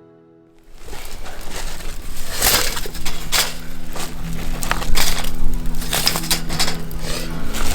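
Wood campfire crackling, with many sharp pops and snaps over a dense hiss, starting about half a second in.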